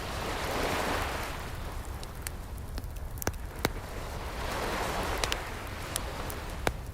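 Ocean waves washing in and receding, swelling twice, with a wood fire crackling over them in a handful of sharp pops.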